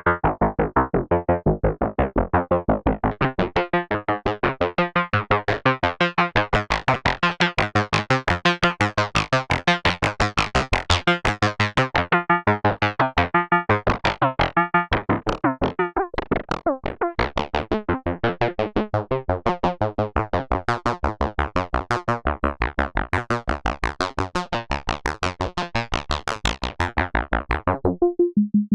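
K-ACCUMULATOR Eurorack oscillator in its FBPM2 feedback phase-modulation mode, playing a sequenced melody of short synth notes at about four a second. The tone turns much brighter and buzzier a few seconds in and softens again near the end.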